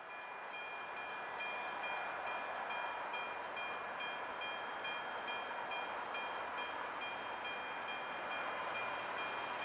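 Approaching InterCity2 passenger train heard from down the line: a steady rushing rumble with several high, steady ringing tones over it, growing louder over the first couple of seconds.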